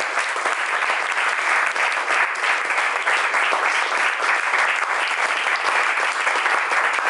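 Concert audience applauding steadily after the piece ends: a dense, even patter of many hands clapping.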